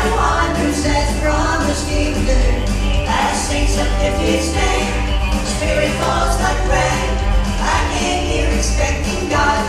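A gospel vocal group singing a song with instrumental accompaniment, a steady bass underneath and a regular beat.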